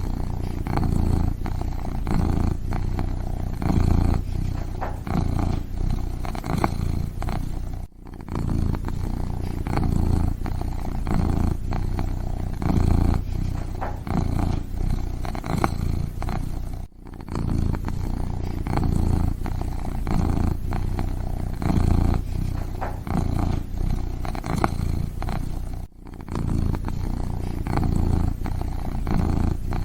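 Kitten purring steadily, the low rumble swelling and easing with each breath. It breaks off briefly about every nine seconds.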